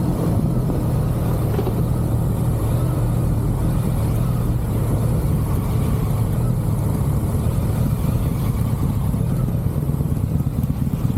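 Motorcycle engine running steadily under way, a low even note with no big change in revs.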